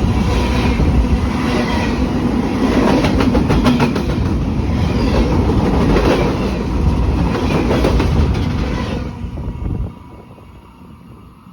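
Railroad train rolling past, wheels clicking over the rail joints, with a loud rumble that drops off sharply about ten seconds in.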